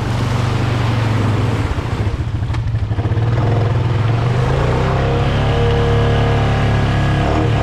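ATV engine running, with a steady higher engine tone joining in about halfway through.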